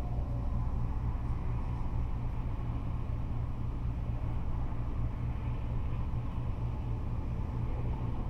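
Continuous freeway traffic of cars and trucks: a steady, deep rumble with no single vehicle pass standing out.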